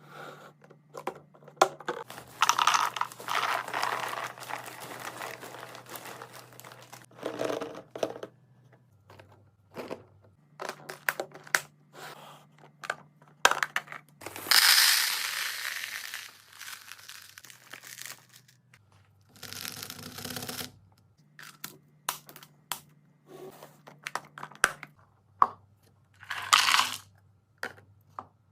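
Plastic packaging crinkling and tearing while groceries are unpacked, with scattered clicks and knocks as items and containers are handled and set down. A faint low hum runs underneath.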